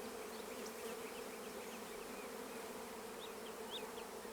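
A swarm of honey bees buzzing steadily around an open hive as frames are moved, a constant hum. Faint short high chirps sound throughout.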